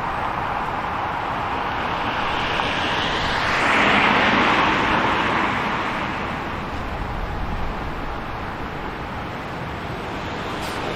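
Street traffic noise, with one vehicle passing that swells to its loudest about four seconds in and then fades away.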